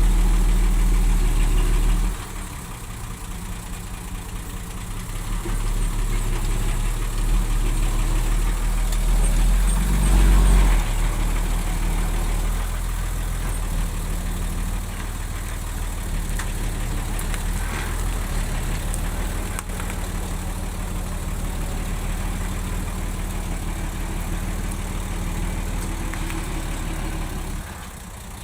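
Diesel engine of heavy earthmoving machinery running with a deep, steady hum. It is loud at first, drops suddenly about two seconds in, swells again around ten seconds, then runs steadily until it falls away near the end.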